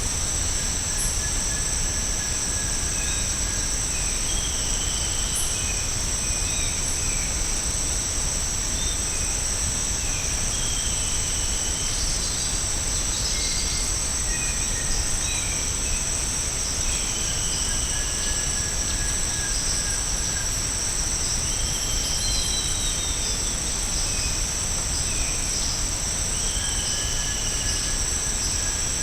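Tropical rainforest ambience: a constant high-pitched insect drone, with short bird chirps scattered through it and a thin, drawn-out whistle a few times, each lasting about two seconds.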